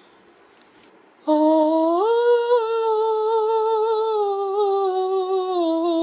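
A person's voice holding one long note that starts about a second in, steps up in pitch shortly after, holds with a slight wobble, and drops back down near the end.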